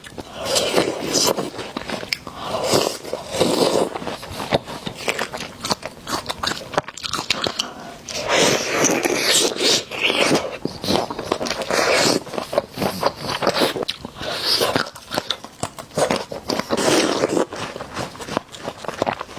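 Close-miked eating sounds: repeated crunchy bites and chewing of candied fruit and jelly sweets, with crackling bites throughout.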